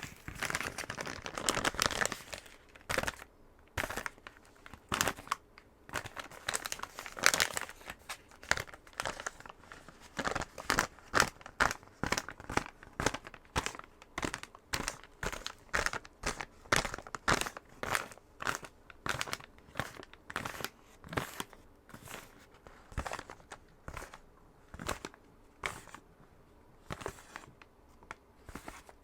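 Fingernails tapping quickly on a box, a few sharp taps a second, mixed with scratching strokes of the nails over its surface near the start and again about seven seconds in.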